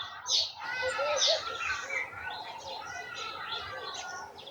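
Several garden songbirds chirping and singing at once, with overlapping short whistled notes and trills, and two sharper, louder high calls in the first second and a half.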